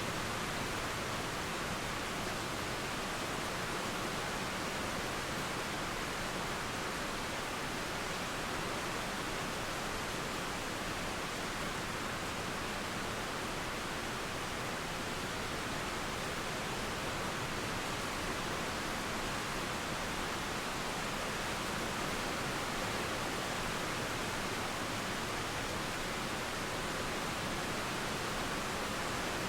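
Steady rain mixed with a flowing river: an even, unbroken hiss.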